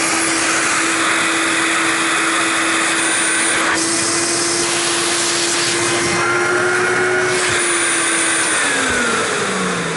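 Electrolux Marquise 1521 canister vacuum running steadily with a motor hum and an airy rush of suction. Near the end it is switched off and the motor pitch falls as it winds down.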